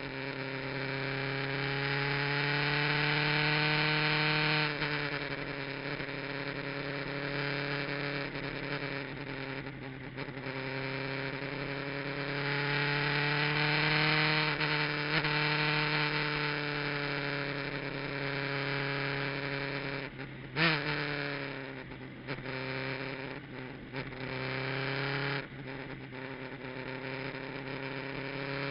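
Kawasaki GPZ900R's inline-four engine at track speed, picked up by an onboard action camera. The revs climb under acceleration, drop sharply about five seconds in, climb again, then fall off with a single sharp pop about twenty seconds in. A steady hum runs under it throughout.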